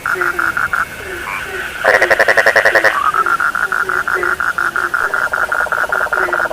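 A chorus of frogs calling: a steady train of rapid pulsed calls, about six a second, over lower short croaks repeating roughly twice a second. About two seconds in, a louder, harsher pulsed call lasts about a second.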